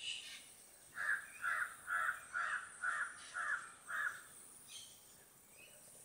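A bird calling seven times in an even series, about two notes a second for some three seconds, against a faint steady insect hiss.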